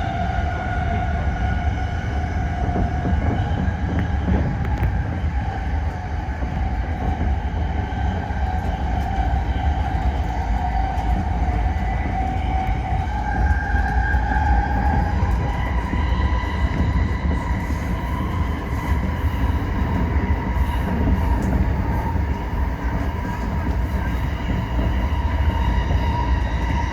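Toyo Rapid Railway 2000 series electric train running between stations: a steady low rumble of wheels on rails, with a high whine over it that steps up in pitch about halfway through.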